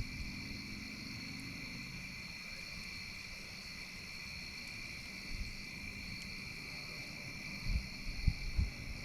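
Steady insect chorus, an unbroken high chirring at a constant pitch, with a few low bumps near the end.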